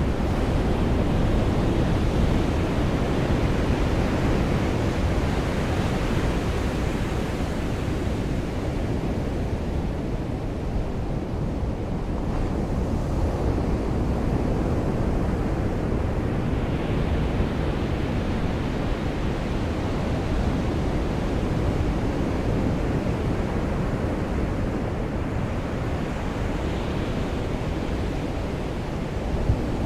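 Surf washing onto a beach: a steady wash of noise that swells and eases every several seconds.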